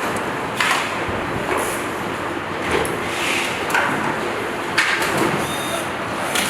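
Steady factory floor noise with a series of sharp clacks and knocks, about one a second, typical of parts being handled on an assembly line.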